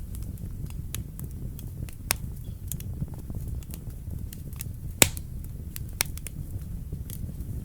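Wood fire burning in a fireplace: a steady low rumble of flames with scattered crackles and snaps, and one sharp, loud pop about five seconds in.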